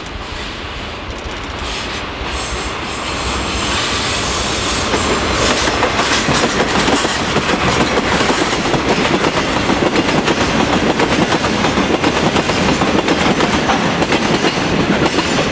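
A freight train headed by two JNR Class DD51 diesel-hydraulic locomotives running together passes, growing louder over the first few seconds. Then comes the steady rumble and rapid clickety-clack of its tank wagons' wheels rolling over the rails.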